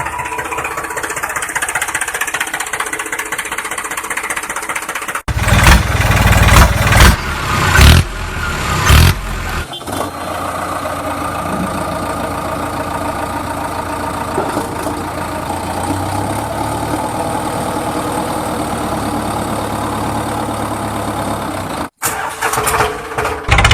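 Engine running in several abruptly cut segments. It runs steadily, then about five seconds in there is a louder stretch with several surges, then steady running again until another cut near the end.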